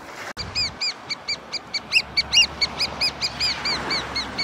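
A bird calling a rapid series of short, clear, arched piping notes, about five a second, starting about half a second in.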